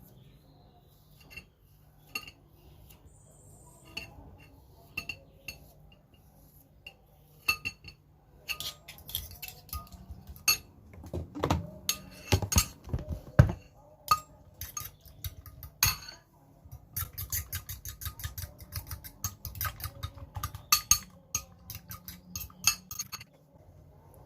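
Metal cutlery clinking and scraping against a bowl or dish during food preparation, a few separate clinks at first, then rapid, continuous clinking from about a third of the way in, as when stirring or beating with a fork. A faint low hum runs underneath.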